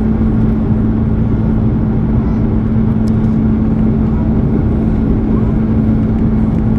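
Steady engine and air noise inside the cabin of an Airbus A330, with a constant low hum running under it.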